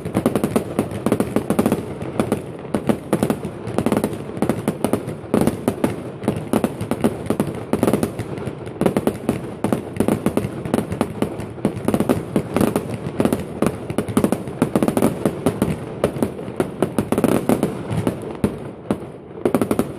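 Fireworks display: a dense, continuous barrage of bangs and crackling reports, many a second, with no let-up.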